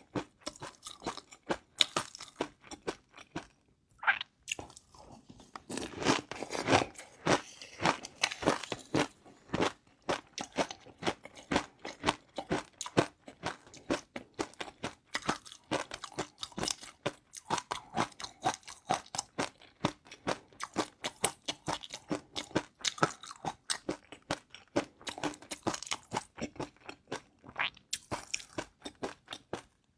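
A person chewing crunchy food close to the microphone: rapid, dense crunches one after another, with a brief pause a few seconds in.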